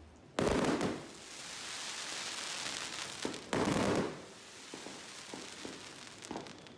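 Fireworks going off: two loud bangs about three seconds apart, with a high crackling hiss between them and a few smaller pops near the end.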